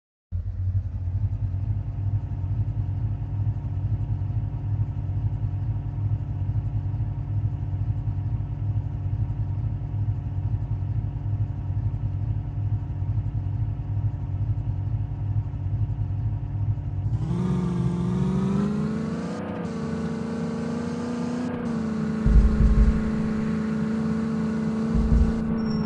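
A vehicle engine running steadily at low revs. About two-thirds of the way through, the sound switches to an engine at higher revs whose pitch rises and falls, with two deep thumps near the end.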